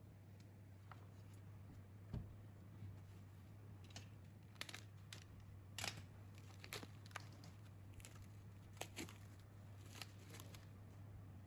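Faint workshop handling noises: scattered light clicks and short scrapes, a few louder ones in the middle, over a steady low hum.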